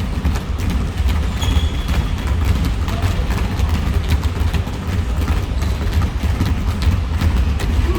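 Basketball play in a gym: many knocks from the ball bouncing and players' running steps, with a brief high sneaker squeak about a second and a half in, over a steady low rumble.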